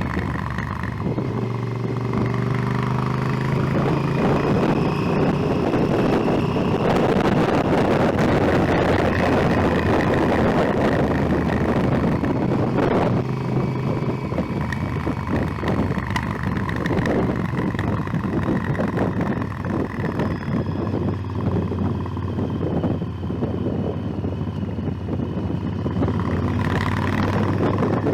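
Motorcycle engine running under way, with wind rushing over the microphone. The engine pitch climbs in the first few seconds, and the wind rush is strongest in the middle.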